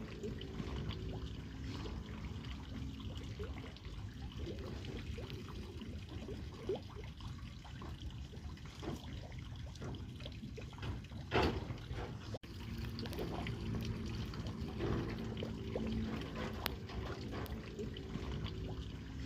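Water trickling and splashing, with a louder splash about eleven seconds in and a brief cut-out just after.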